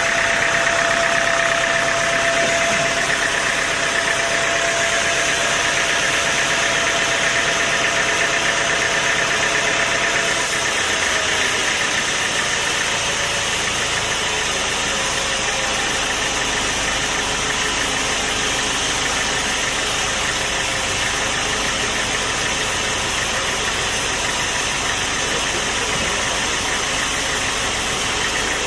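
Sawmill machinery running steadily, a continuous mechanical noise with a whine that fades about ten seconds in.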